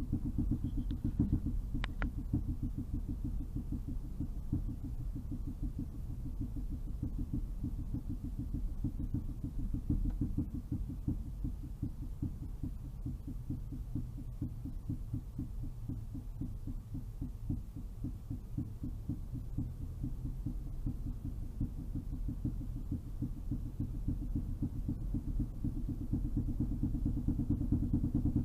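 Cabin sound of a 2008 Toyota Highlander driving, recorded by a dashcam: a low road rumble with a fast, even run of low knocks from the rear that sounds like someone playing the bongos inside the car. This is the intermittent rear noise whose cause is unknown.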